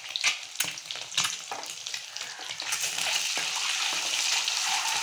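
Whole boiled eggs frying in hot oil in a metal kadhai, sizzling and crackling while a spatula scrapes and taps the pan. The sizzle turns steadier and louder about three seconds in.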